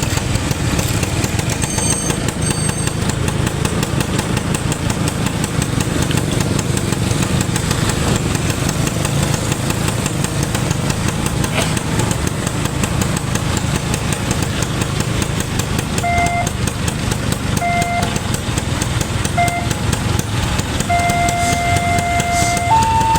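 Motorcycle and vehicle engines idling in a steady rumble of traffic. About two-thirds of the way through, a horn gives a few short toots, then holds a long note that steps up in pitch near the end.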